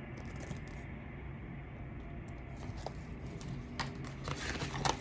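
Faint handling noise: light clicks and rustles over a low steady room hum, the clicks coming more often in the second half.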